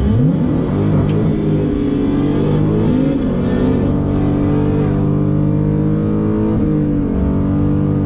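Supercharged 6.2-litre V8 of a Dodge Challenger Hellcat Redeye, heard from inside the cabin. It revs sharply up, wavers, then holds at high revs for several seconds before dropping back at the end.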